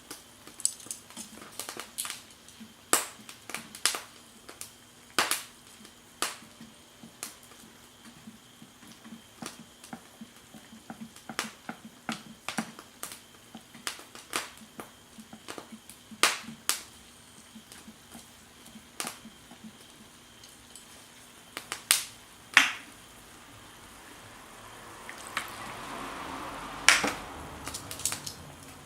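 Wood crackling and popping in a small Firebox campfire stove: irregular sharp pops, a few much louder than the rest. Near the end a hiss swells up for a few seconds under the pops.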